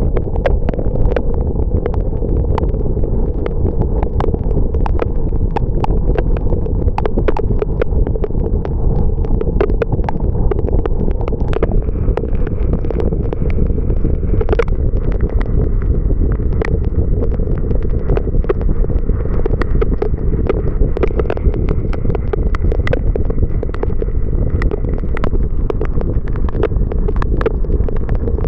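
Car driving in the rain: a steady low rumble of tyres and wind noise, with many irregular ticks of raindrops striking the car.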